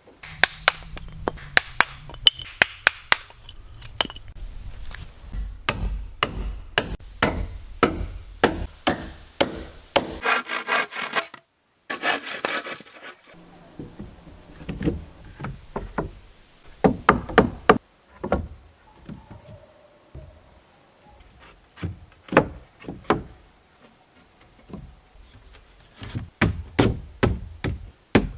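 Hand-tool work on wood: runs of sharp hammer blows, a short stretch of scraping or sawing about ten to thirteen seconds in, then scattered knocks on timber.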